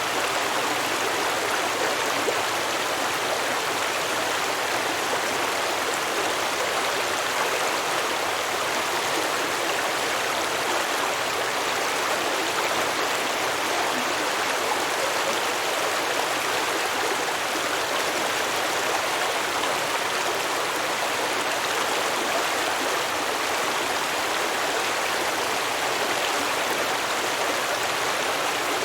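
A stream running over rocks, with a steady babbling and rushing of water.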